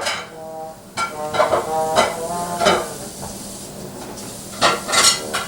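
A dog whining in several short, fairly level-pitched whines, worked up at deer it can see but cannot get to.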